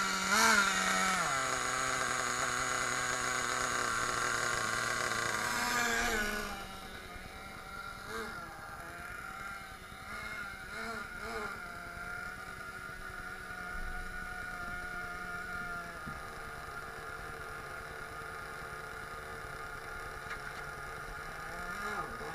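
Small glow-fuel (nitro) engine of an HSP Tornado RC monster truck, its carburettor newly tuned: a few quick throttle blips, then a steady high-pitched run. About six seconds in it drops and runs on quieter and steadier, with a few small blips, and revs up again at the very end.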